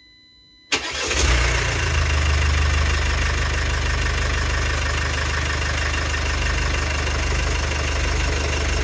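Mercedes OM651 2.2 CDI four-cylinder diesel starting: it catches suddenly under a second in, surges briefly, then settles into a steady idle. The timing chain tensioner has just been replaced, and the start is much better than with the old one.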